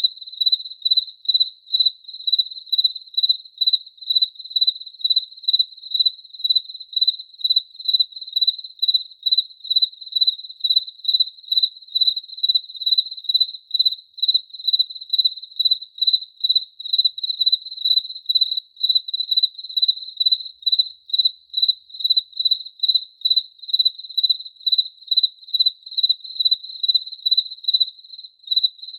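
A cricket chirping: a high-pitched, single-tone chirp repeated in a steady, even rhythm of about two chirps a second.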